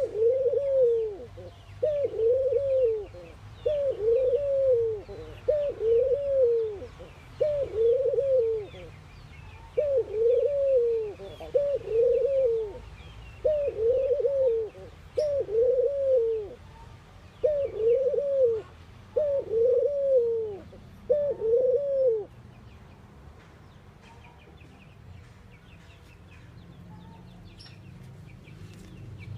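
Ringneck dove cooing: a run of repeated low, arched coos in groups of two or three, stopping about three-quarters of the way through. Faint chirps of small birds run behind.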